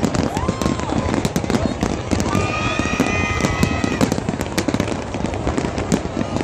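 Aerial fireworks display: many shells bursting in rapid, overlapping bangs with crackling.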